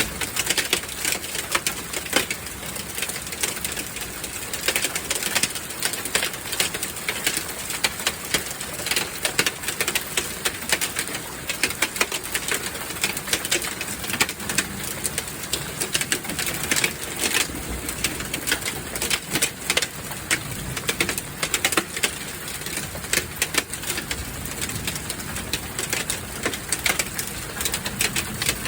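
Hailstones pelting a hard surface in a storm: a dense, irregular clatter of sharp clicks and knocks over a steady wash of noise.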